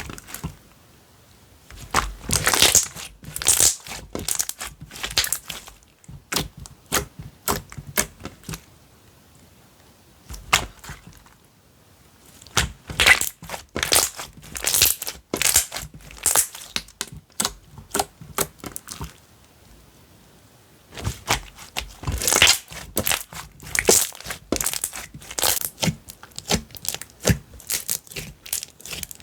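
Slime being squished and stretched by hand, giving dense runs of crackling, popping clicks in three stretches with short pauses between.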